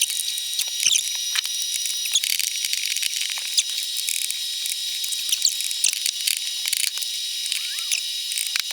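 Hand screwdriver driving screws home, with rapid ratchet-like clicking over a steady high hiss.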